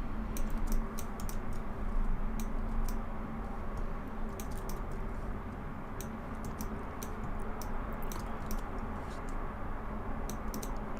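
Computer keyboard and mouse clicking in irregular runs of short clicks as hotkeys and commands are entered, over a steady low hum.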